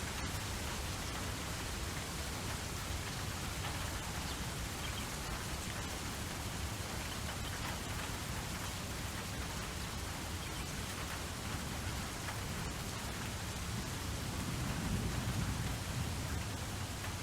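Steady rain falling, an even hiss of drops. About fifteen seconds in, a low rumble of thunder swells under it.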